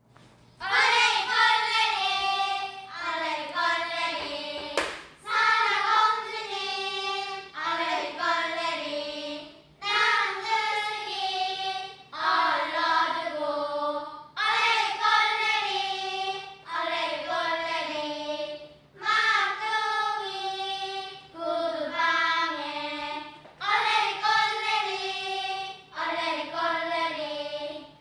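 Choir singing in short phrases of about two seconds, each followed by a brief break.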